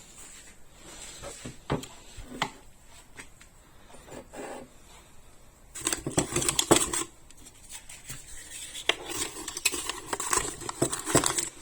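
Metal kitchen utensils and espresso-making parts clinking and knocking a few times, then about halfway through a longer stretch of scraping and rattling as they are handled.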